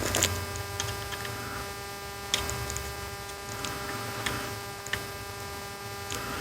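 Scattered light clicks and taps from an instrument cluster's plastic housing and clips being handled and snapped together, over a steady electrical hum.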